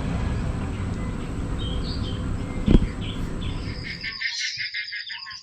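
Outdoor ambience: a steady rushing noise with a few bird chirps and one thump about halfway through, then, after about four seconds, a quieter dawn chorus of birds calling over rapid pulsed insect chirping.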